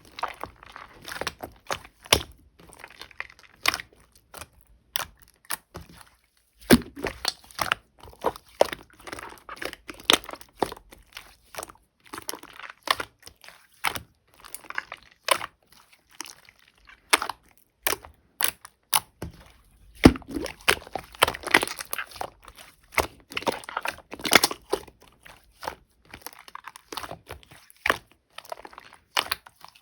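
Clear slime mixed with clay, squeezed and worked by hand, giving irregular clicks, pops and crackles with brief pauses.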